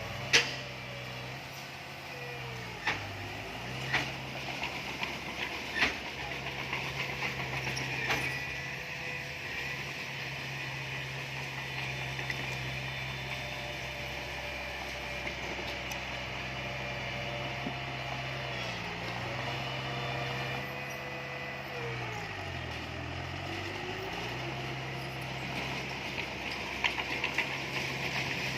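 An engine running steadily, its pitch dipping briefly a few times as it slows and picks up again, with a few sharp knocks in the first eight seconds.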